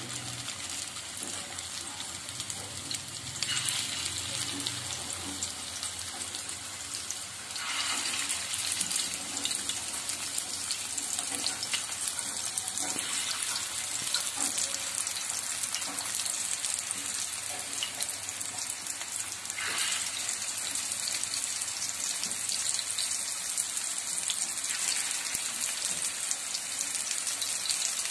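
Chicken kababs shallow-frying in hot oil on a flat griddle: a steady sizzle with fine crackling, which gets louder in steps as each new patty is laid into the oil.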